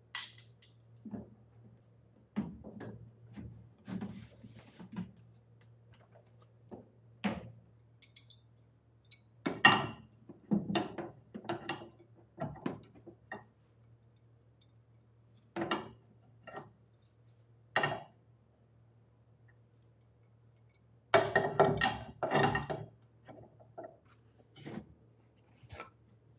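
Hand tools and machine parts being handled: irregular knocks, taps and short bouts of clatter, with a steady low hum underneath.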